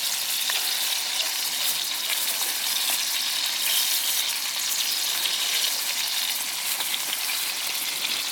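Butter sizzling in a pan over a gas camping stove: a steady frying hiss with a few faint crackles.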